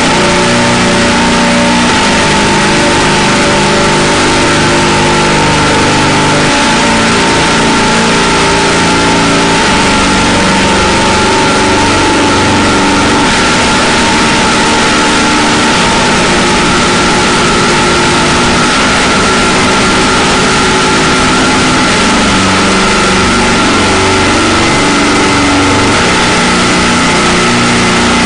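Harsh noise drone music: a loud, unbroken wall of distorted noise with a few steady high tones. Underneath, low droning pitches shift every second or two.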